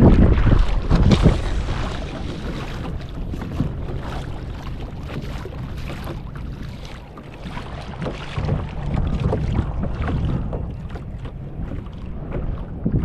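Wind buffeting the microphone with water lapping against a kayak on open sea, in uneven gusts, strongest in the first second or so.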